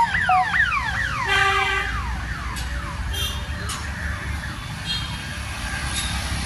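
An electronic siren-like signal of rapid repeated downward pitch sweeps, several a second, fading out after about two seconds, over a steady low traffic rumble.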